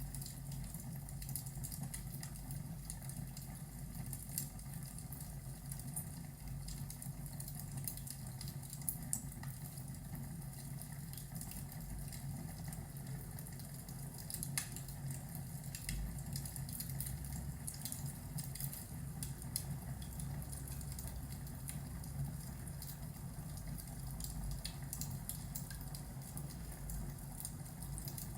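Fireplace crackling, with many small irregular pops and snaps over a steady low rumble.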